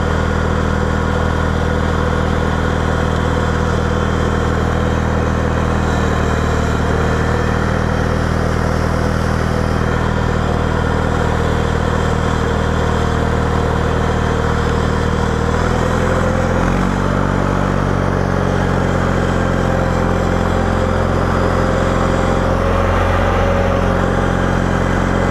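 John Deere 318 garden tractor engine running steadily under plowing, its note stepping down to a lower engine speed about two-thirds of the way through.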